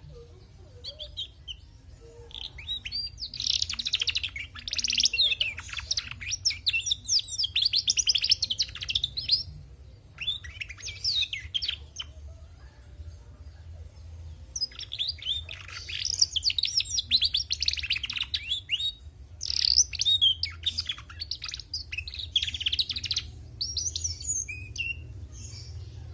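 Female domestic canary twittering in rapid, high-pitched phrases a few seconds long, broken by short pauses. It is a hen's twitter, the kind of ngriwik that does not prove a canary is male.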